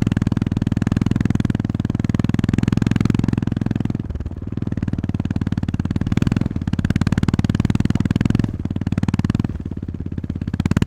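Honda GB350S's air-cooled single-cylinder engine running while the motorcycle is ridden, with a rapid steady thump. The throttle is eased off several times, the engine dropping in level briefly, then opened again.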